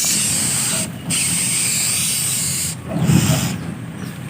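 Loud steady hissing, broken by a short pause about a second in, then stopping just before three seconds in, where a brief low rumble follows.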